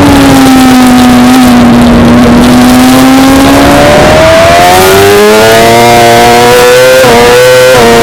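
Suzuki GSX-R600's inline-four engine running hard: the revs sag low for a few seconds, then climb steadily under acceleration, with a brief dip near the end.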